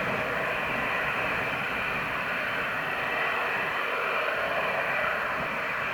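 Steady hiss of an air-band radio channel left open between tower transmissions.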